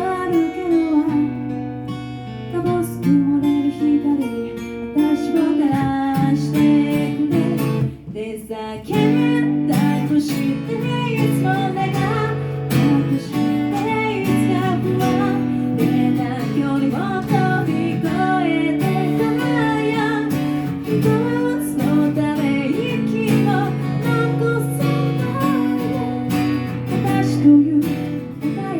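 Live acoustic guitar performance of a pop song: strummed chords with a wavering melody line over them, thinner for the first several seconds and fuller from about nine seconds in.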